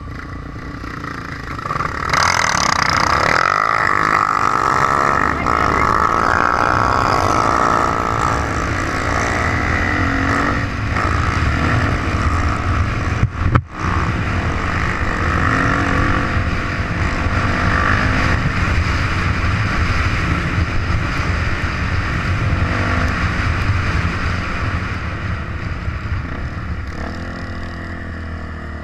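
Trail motorcycle engine running under way, its pitch rising and falling as it is ridden, with one brief cut-out about halfway through.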